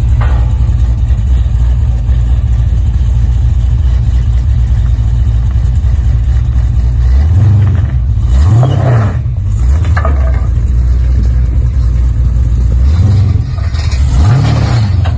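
Car engine running at a loud, rumbling idle, revved up and back down twice: about halfway through and near the end.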